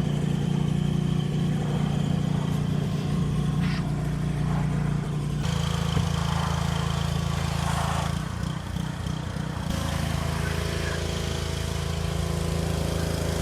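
A small motor running steadily with a low hum. The sound changes abruptly about five and a half seconds in and again near ten seconds.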